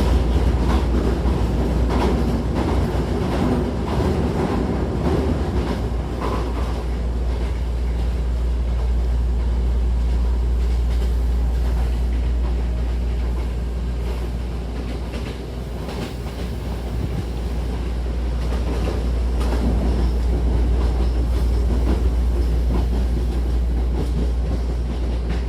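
Hankyu 1000-series electric train running, heard inside the car: a steady low rumble with the wheels clicking over rail joints, most clearly in the first several seconds and again near the end.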